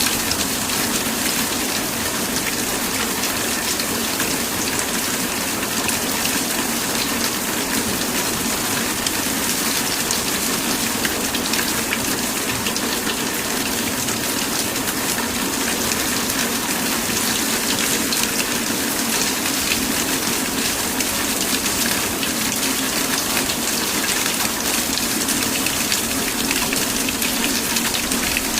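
Steady heavy rain, a dense even hiss of falling drops with fine crackling patter.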